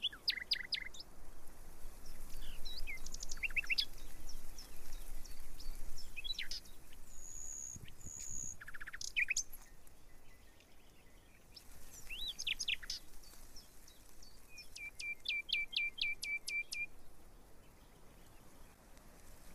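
Small wild birds singing and calling: scattered short chirps and whistles, a held high note about seven seconds in, and a quick run of about nine repeated notes near the end.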